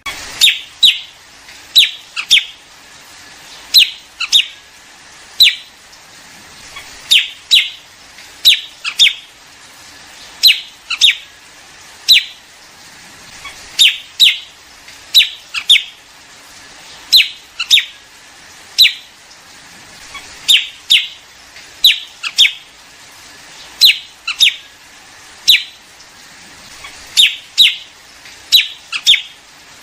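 Liếu điếu bird calling, played as a trapper's lure recording. It gives short, sharp, downward-slurred notes, singly or in quick pairs and threes, repeated every second or two.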